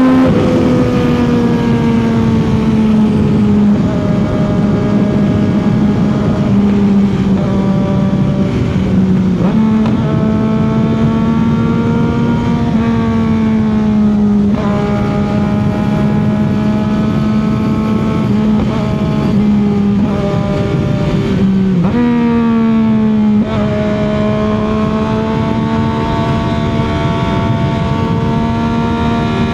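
CFMOTO 675's inline three-cylinder engine and exhaust running at a steady highway cruise, with wind noise. The engine note holds mostly level, dipping and coming back up briefly a few times as the throttle or gear changes.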